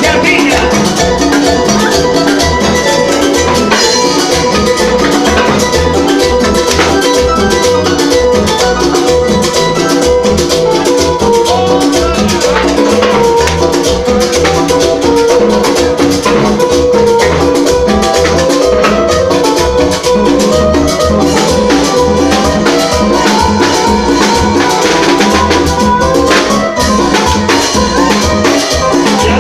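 Live Latin band playing an instrumental rumba-son passage: a steady dance beat on drum kit and shaken percussion under sustained melody lines, with no singing.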